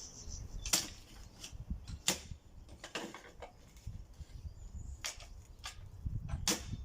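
About five sharp, short knocks or clicks at uneven intervals, over a low steady rumble.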